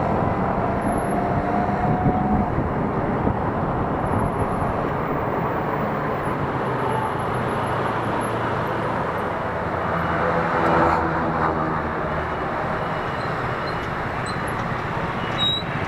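Road noise heard from a moving electric scooter: a steady rush of wind and street traffic, with a faint rising whine in the first couple of seconds. About ten seconds in, a louder vehicle engine passes.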